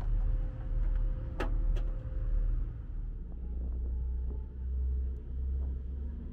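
A steady, low engine rumble that settles a little lower in pitch about halfway through, with two sharp clicks about a second and a half in.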